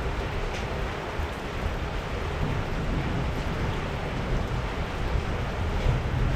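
Heavy rain falling steadily, with a low, uneven rumble underneath.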